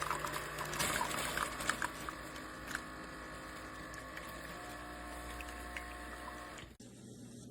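Keurig K-Supreme single-serve coffee maker brewing: coffee trickling into a cup over a faint steady machine hum, with small scattered clicks. It cuts off abruptly near the end.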